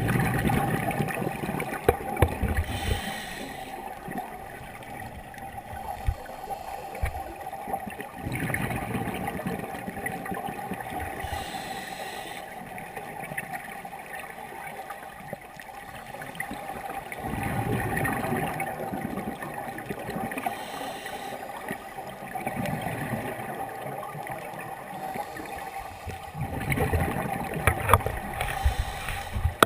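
Scuba regulator breathing underwater. Slow breaths about every eight or nine seconds, each a surge of gurgling exhaled bubbles paired with a short hiss of air, over a steady faint hum.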